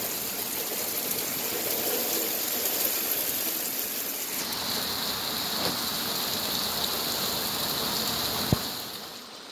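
Heavy thunderstorm rain falling steadily, an even hiss that turns brighter about halfway through, with one short knock near the end.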